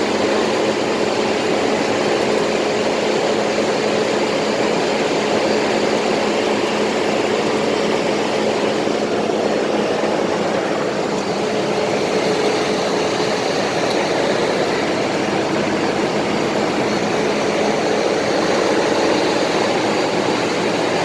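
Large diesel engine of a rice combine harvester running steadily at a constant speed.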